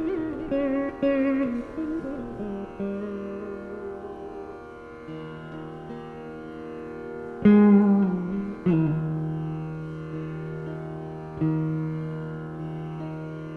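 Saraswati veena playing a Carnatic krithi in raga Khamas: plucked notes with wavering pitch slides (gamakas) in the first two seconds, then long ringing held notes over the drone, struck afresh three times in the second half.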